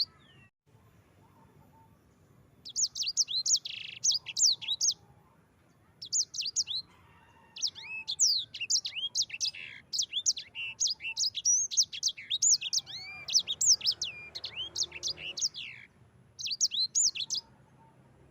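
Sanger songbird singing long rolling phrases of rapid, high, sharp chirps and trills, broken by a few short pauses.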